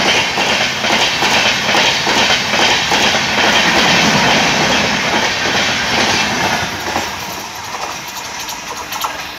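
Express passenger train's coaches rushing past close by at speed, the wheels clattering rapidly over the rail joints. The noise fades over the last couple of seconds as the train moves away.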